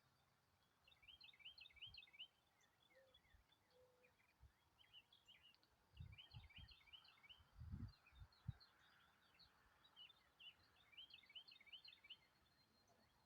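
Faint chirping of small birds: quick runs of short, high chirps in three bursts. A few low thumps come about six to eight seconds in.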